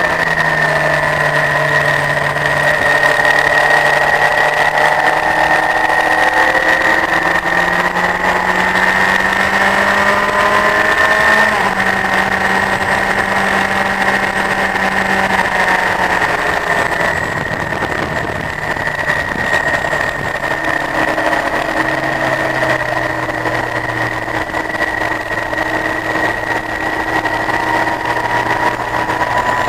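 Honda CBF1000 motorcycle's inline-four engine running at moderate revs. Its pitch holds and then steps up or down every few seconds as it changes gear, over a steady high whine.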